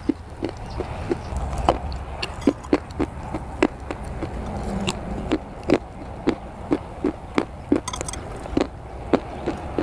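Dry brown clay being bitten and chewed, giving sharp crunches about twice a second, uneven in loudness.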